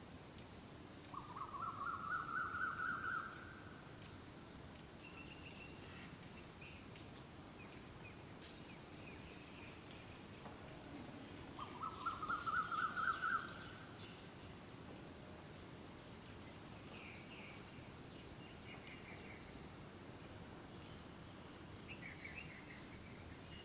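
Birds calling: twice, about ten seconds apart, one bird gives a loud trill of rapid notes that climbs in pitch over about two seconds. Softer short chirps from other birds come in between and near the end.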